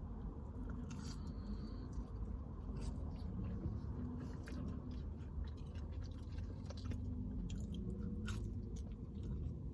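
A person chewing and biting food with mouth sounds close to the microphone: scattered small clicks and crunches over a steady low hum.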